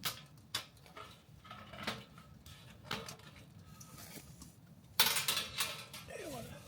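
Objects being handled: a few separate light clinks and knocks, then a louder scraping rustle about five seconds in, with a short falling squeak just after.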